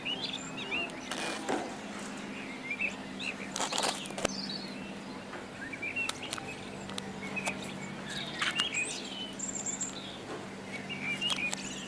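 Small birds chirping in short, scattered calls over a steady low hum, with a few sharp clicks or rustles.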